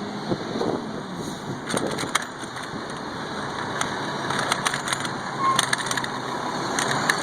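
Street noise while riding a bicycle: a steady rush with scattered sharp clicks and rattles, growing louder toward the end.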